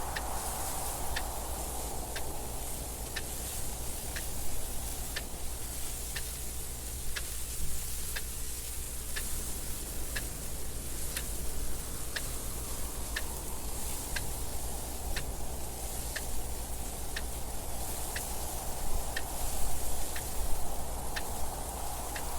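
A clock ticking about once a second over wind noise that swells and fades, with a steady low rumble underneath.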